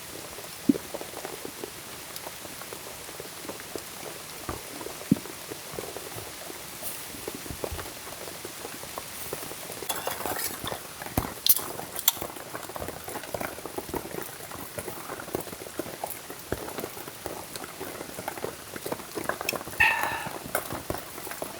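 Liquid simmering and bubbling in a pot over a fire, with irregular small pops and clicks, busier about halfway through. A short high squeak near the end.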